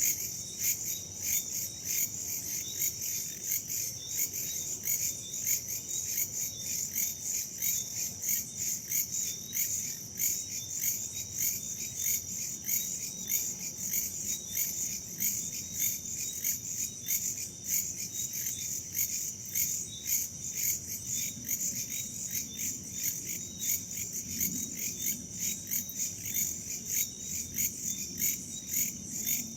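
Crickets and other insects chirping in a steady, regular high pulse, with a low, even rumble of wind beneath.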